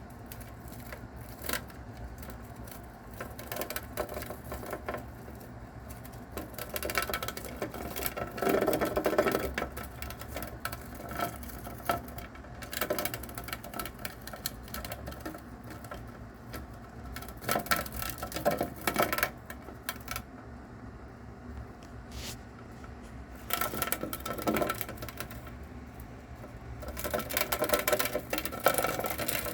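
A mouse struggling with and tearing into a live cicada: several bursts of rapid crackling and rattling clicks, a few seconds apart, over a steady low hum.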